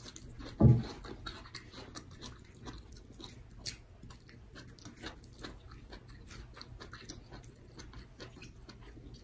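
A person chewing a mouthful of cooked bitter melon (ampalaya), with many small, irregular mouth clicks and smacks. A brief low sound just under a second in is the loudest moment.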